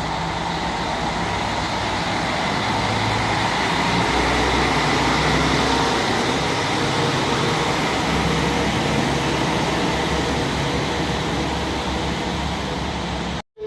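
Train at a station platform: a steady rushing running noise with a low engine hum, swelling over the first few seconds, then cutting off suddenly near the end.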